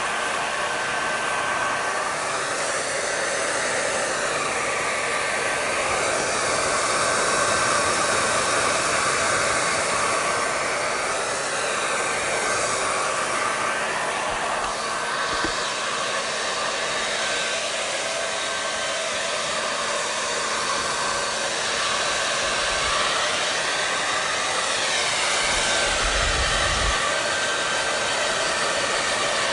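Electric hair dryer running steadily: a continuous rush of blown air over a faint motor hum, its tone slowly wavering up and down now and then.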